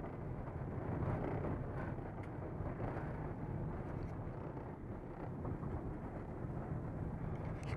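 A car running at low speed, giving a steady rumble of engine and road noise, with a few faint clicks.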